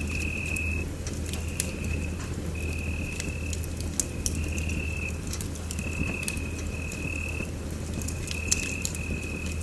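Wood fire in a fireplace crackling, with irregular sharp pops over a steady low rumble. A high, thin tone keeps breaking in and out in short spells of about half a second to a second.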